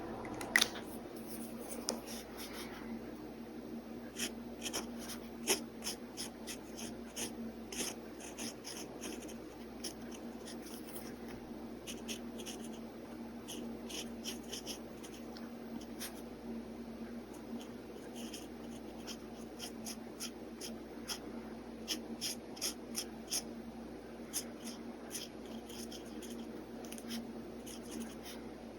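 Pen scratching on paper in many short, quick sketching strokes, over a faint steady hum.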